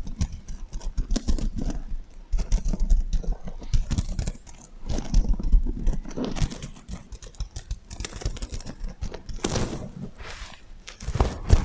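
Sequin heart pillow being tapped and scratched close to the microphone, with an echo effect added: a dense, irregular run of soft thumps, clicks and scratchy rustles of flipping sequins.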